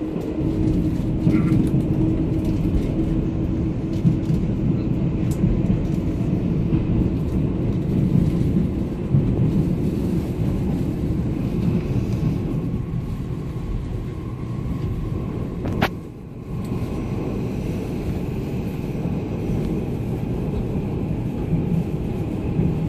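Taiwan Railway Tze-Chiang express train pulling away and running, heard from inside the passenger car: a steady low rumble, with a brief dip in level about two-thirds of the way through.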